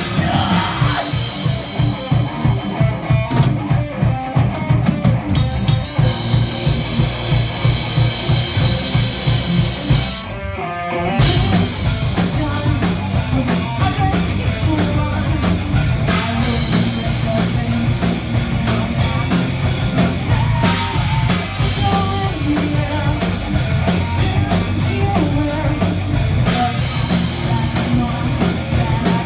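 Metal band playing live: distorted guitars, bass and drums with rapid, even drum strokes. The band drops out briefly about ten seconds in, then comes back in full.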